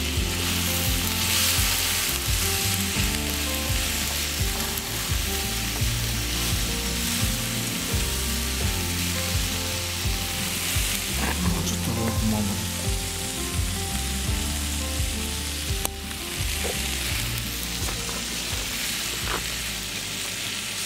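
Sliced pork, shiitake and green onion sizzling in sesame oil in a hot wok, stirred with chopsticks, with a few light clicks of the chopsticks against the pan. Background music plays underneath.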